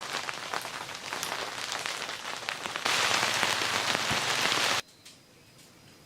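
Steady rain with individual drops heard, turning louder and heavier about three seconds in, then cutting off suddenly near the end to a faint hiss.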